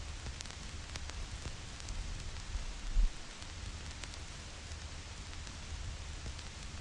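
Vinyl record surface crackle: a steady hiss with scattered small pops and clicks and a low rumble underneath. A single low thump stands out about three seconds in.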